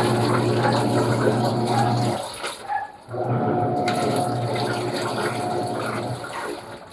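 Panasonic washing machine running a wash cycle: a motor hum with water sloshing, pausing for about a second roughly two seconds in, then starting again, the stop-and-go of the wash action.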